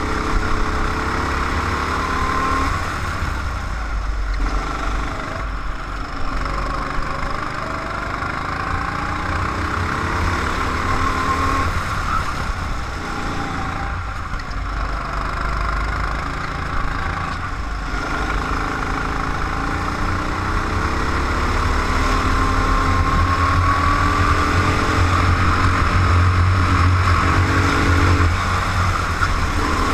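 Go-kart engine running on track, its pitch repeatedly rising and falling as it accelerates and slows, over steady wind and road noise, getting somewhat louder in the last third.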